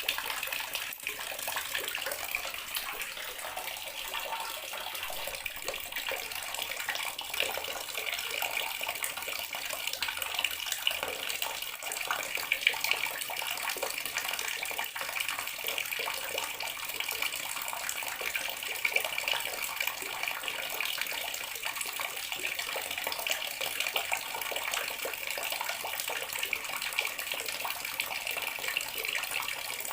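Water running steadily from a bathroom tap and splashing into the basin or tub below.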